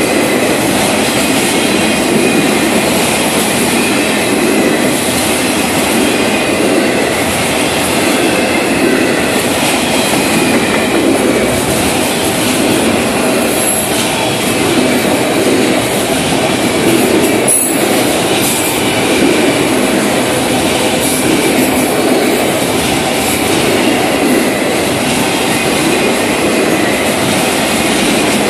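Florida East Coast Railway freight train's cars rolling past at slow speed: a steady clatter and rumble of steel wheels on rail, with faint high wheel squeals.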